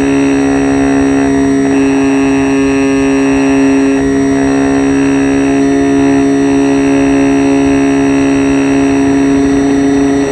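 Radio-controlled Cessna Caravan model's motor and propeller running steadily at constant speed, heard from a phone riding inside the fuselage. It is a loud, even drone with a steady buzzing pitch and rushing noise underneath.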